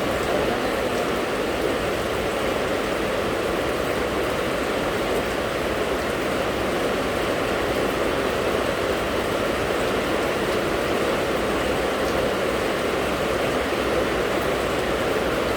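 Steady rain falling, an even unbroken rush of noise.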